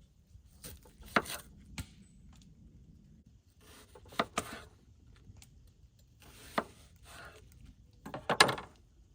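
Carrot pieces being set into a cast iron Dutch oven to line it: about six sharp knocks with rubbing and shuffling around them, the loudest near the end.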